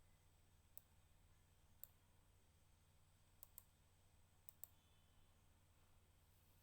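Faint computer mouse clicks over a low steady hum: two single clicks, then two quick double-clicks.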